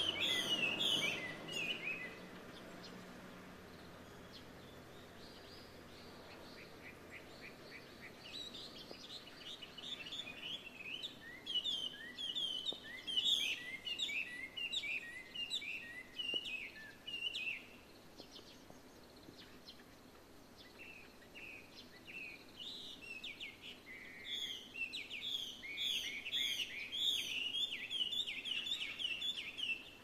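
Songbird singing, taken by the recorder to be a Chinese hwamei (gabichō), a mimic thrush: rapid strings of short, varied whistled notes in three bouts, the first fading about two seconds in, the next from about 8 to 18 seconds, and the last from about 22 seconds on, with quieter pauses between.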